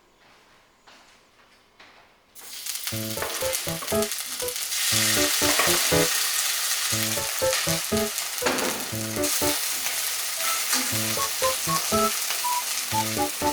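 Food sizzling as it frying in a hot pan, starting suddenly a couple of seconds in and continuing steadily, with light background music over it.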